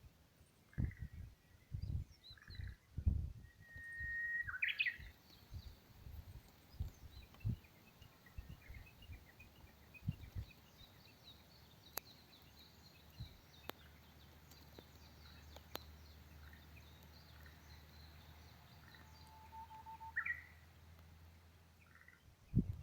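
Wild birds calling faintly: a held whistled note running into a quick sweeping call about four seconds in, scattered chirps and a faint high trill through the middle, and another short call near the end. Low thumps of wind or handling on the microphone in the first few seconds.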